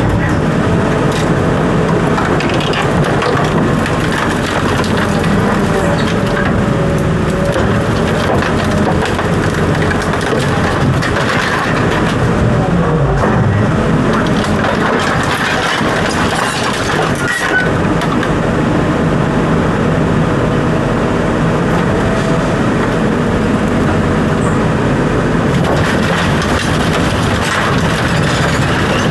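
A heavy engine running steadily, with scattered knocks and crunching over it.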